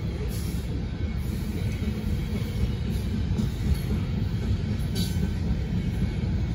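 Freight cars of a slow-moving CSX manifest train rolling past, a steady low rumble of steel wheels on the rails, with a brief higher hiss about five seconds in.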